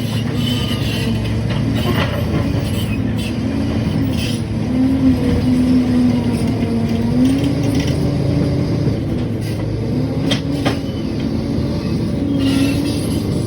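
Liebherr PR 746 crawler dozer working under load: its diesel engine and drive run steadily, their pitch rising and falling as the load changes. A few sharp clanks from the machine break in at times.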